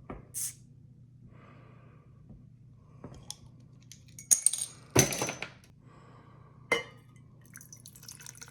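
A beer is opened with a sharp click and a short hiss. A few glassy clinks and knocks follow, and near the end beer starts pouring into a glass with a rising fizz.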